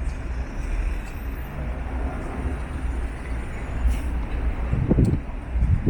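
City street traffic: a steady low rumble of passing cars and buses, with a few short clicks.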